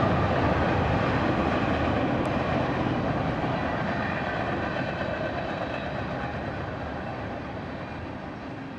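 HO-scale model BNSF train running, with rumbling locomotive sound and wheel noise on the rails, slowly fading away.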